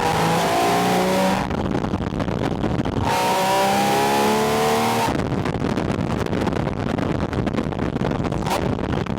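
Porsche 718 Spyder RS flat-six engine, heard at its air intake, rising in pitch twice under hard acceleration. Each pull lasts one to two seconds and cuts off abruptly. For the last few seconds it runs more quietly under steady road and wind noise.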